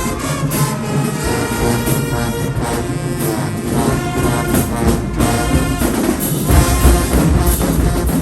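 High school marching band playing, brass section (trombones, trumpets) carrying sustained chords over steady drum strikes, with heavy bass drum hits coming in about six and a half seconds in.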